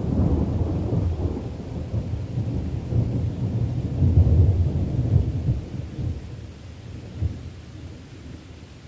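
Rolling thunder rumbling deep and low, swelling a few times and then fading away over the last few seconds, with rain beneath it.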